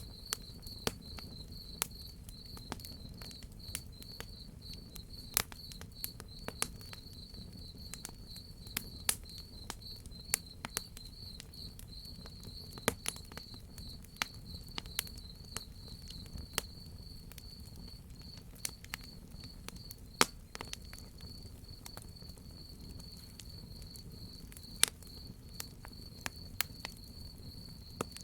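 Crickets chirping in a steady, fast pulsing trill, over the irregular crackles and sharp pops of a wood fire and a low rumbling hiss.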